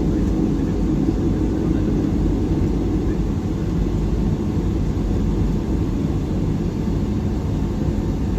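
Cabin noise of a Boeing 757-300: a steady low rumble from the engines and airframe, with no distinct events.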